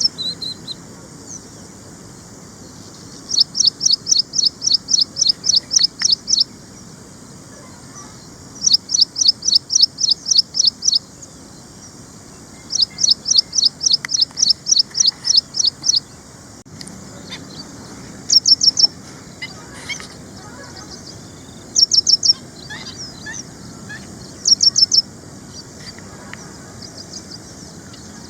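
Ashy prinia singing: three long runs of rapid, evenly repeated high notes, about five a second, followed by shorter bursts of two or three notes.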